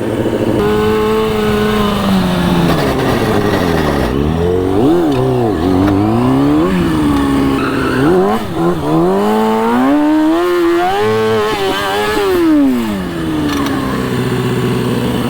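Sport bike engine revving as it is ridden, its pitch climbing and dropping again several times as the throttle is opened and shut, then settling to a steady note near the end.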